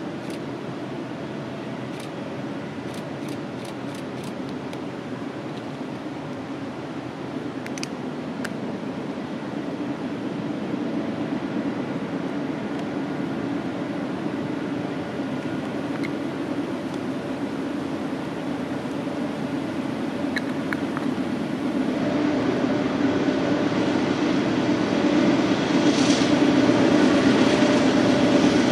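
BNSF diesel freight train approaching, the rumble of its locomotives growing steadily louder, with a brief hiss near the end.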